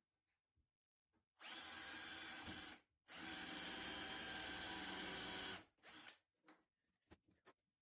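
Electric drill-driver running at a steady speed in two bursts, one of about a second and a half and a longer one of about two and a half seconds, followed by a few light knocks.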